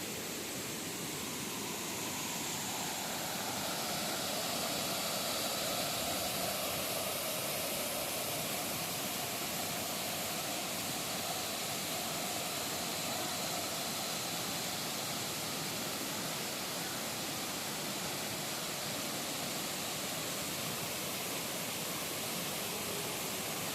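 Waterfall: a steady rushing roar of falling water, even throughout.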